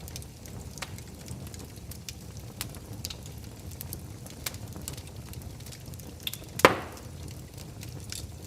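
Wood fire burning in a fireplace: a steady low rumble with scattered crackles and pops, and one loud pop from the burning wood near the end.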